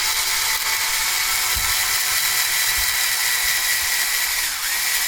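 Brushed-motor electric drill/driver running steadily with a noisy whine, its pitch dipping briefly about four and a half seconds in before picking up again.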